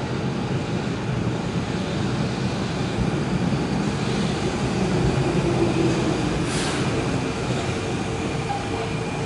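Keihan 8000 series seven-car electric train pulling into the platform and slowing to a stop, a steady rumble of wheels and running gear. A short hiss comes about two thirds of the way through.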